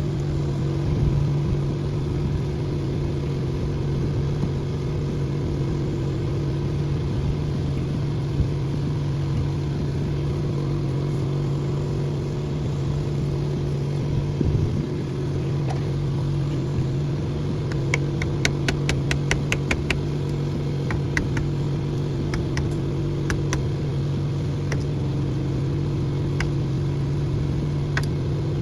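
An engine running steadily at idle, a constant low hum. About two-thirds of the way through comes a quick run of sharp clicks, several a second, then a few scattered single clicks.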